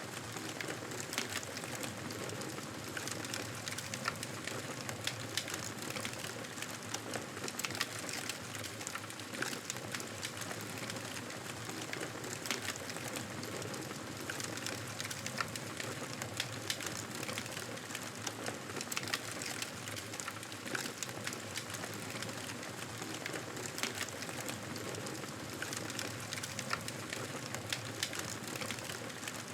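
Wood fire burning steadily, with a constant hiss and many small crackles and pops, a few of them louder.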